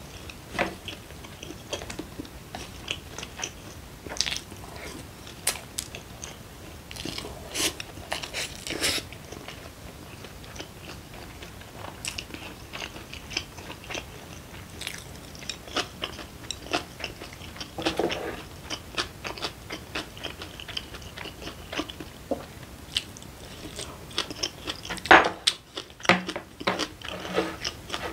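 Close-miked chewing and mouth sounds of a person eating, with irregular small clicks and smacks.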